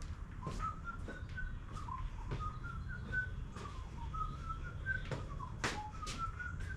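A man whistling a tune to himself, short notes stepping up and down, with a few sharp clicks and knocks in between, one louder about two-thirds of the way through.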